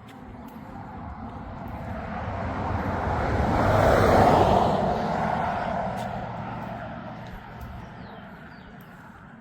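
A motor vehicle passing by on the road: its engine and tyre noise swells to a peak about four seconds in, then fades away.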